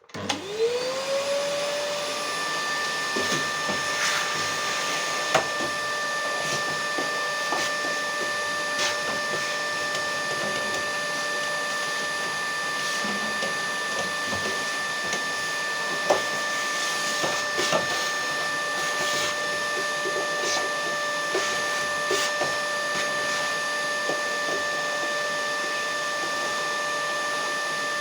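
Vacuum cleaner switched on, its motor whining up to speed within about two seconds and then running steadily, with scattered clicks and knocks over it.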